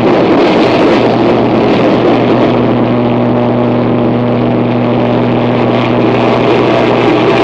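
Harsh noise music: a dense wall of distorted electronic noise over a steady low hum. A higher held tone comes in about two seconds in and drops out near the end.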